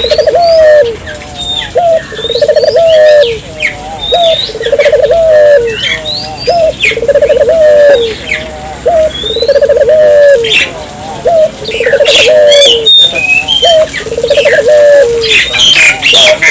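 Puter doves (domestic collared doves) cooing loudly, in repeated rolling coos about once a second. Short, sharp chirps of small birds run over the top.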